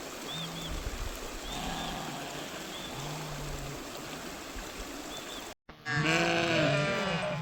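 Steady water noise with a few faint short chirps. After a sudden cut about five and a half seconds in, animals bleat loudly, several calls overlapping.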